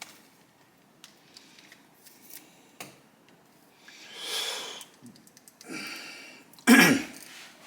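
A few faint clicks, then a person breathing audibly and a short cough near the end, the loudest sound.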